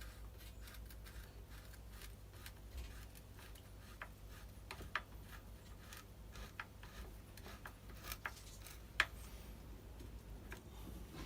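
Small hand-tool work on a screwed cover of a brush cutter: a screwdriver turning small screws, with faint scattered clicks and taps of tool and plastic parts. A few sharper clicks come about four, five, eight and nine seconds in, over a steady low hum.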